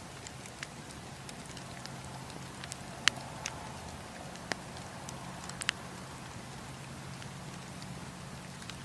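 Campfire wood burning, with scattered sharp pops and crackles over a steady low rumble. The loudest pop comes about three seconds in.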